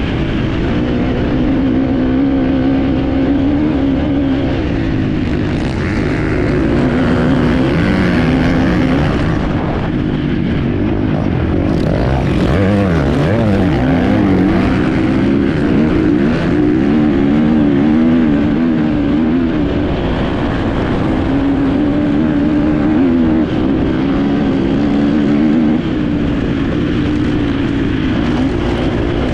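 Enduro motorcycle engine ridden hard, heard on board, its pitch rising and falling with each twist of the throttle and gear change; about halfway through it drops low and climbs back up.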